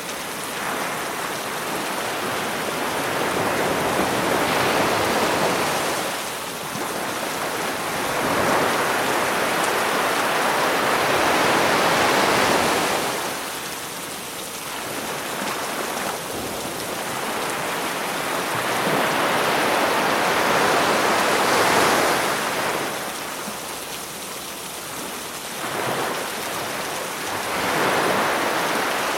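Sea waves breaking and washing up on a beach, the surf swelling and easing every few seconds, under a steady hiss of rain.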